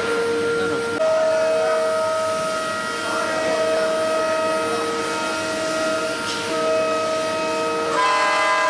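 CNC router running, its spindle and axis drives giving steady whining tones that step to new pitches about a second in and again near the end as the machine changes motion.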